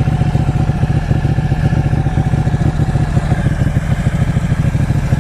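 Ducati motorcycle's L-twin engine running steadily at low revs, a loud, rapid low pulsing.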